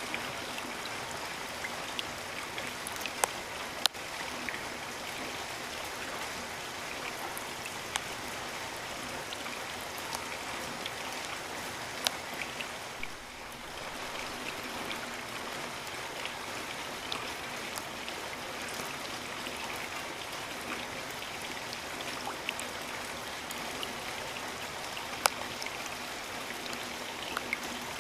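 Steady rain falling in a rainforest: a dense, even hiss of rain with scattered louder single drops tapping close by.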